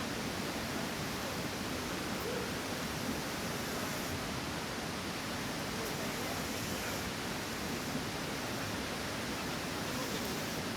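Waterfall rushing in a steady, unbroken wash of noise.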